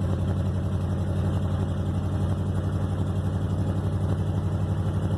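Steady low drone of a vehicle's engine and exhaust while driving, heard from inside the cab, with an even pulsing throb. The exhaust is a little loud and has not yet been fixed.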